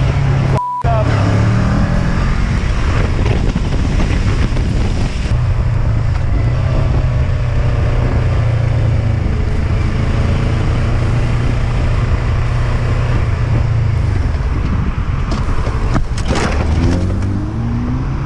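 Motorcycle engine running steadily at speed, revving up about a second in and again near the end. A brief electronic beep sounds under a second in.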